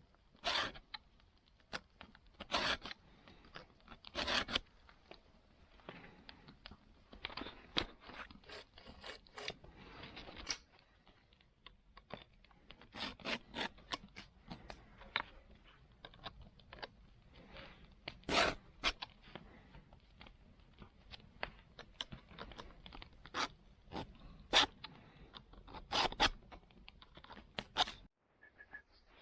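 Metal file scraping along a saw's teeth in irregular strokes of uneven length and loudness, as the saw is sharpened.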